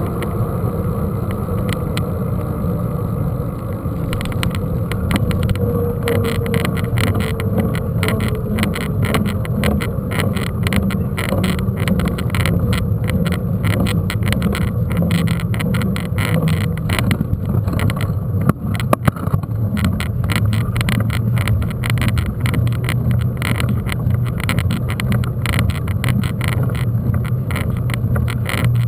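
Mountain bike being ridden over rough ground, recorded from a bike-mounted camera: a steady rumble with constant rattling and clicking, and a sharp jolt about two-thirds of the way through.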